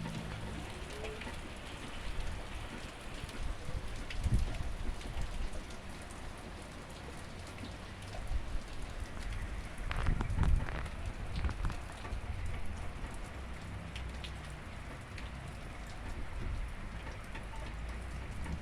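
Steady rain falling, with scattered drops pattering on a surface. Twice, about four and ten seconds in, a louder low rumble rises over it.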